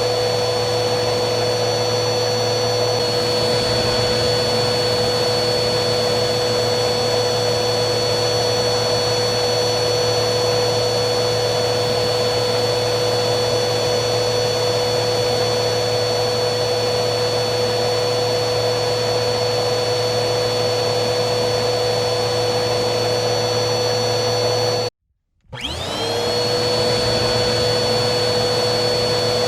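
Vacuum cleaner motor running steadily with a high whine over a rushing noise. Near the end it cuts out completely for about half a second, then the whine rises back up to speed.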